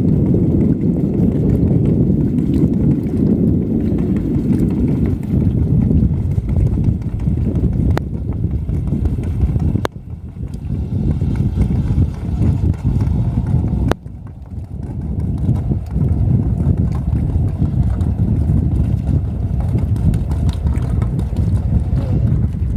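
Hercules NXB marine engine running steadily with a low, rough, rhythmic exhaust beat. A few sharp clicks come about 8, 10 and 14 seconds in.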